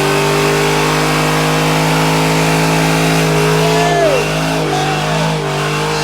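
Car engine held at a steady high rev, then dropping and rising again several times in the last couple of seconds as the driver works the throttle.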